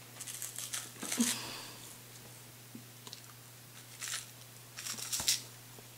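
Plastic snack wrapper crinkling and tearing in a few short bursts, with pauses between.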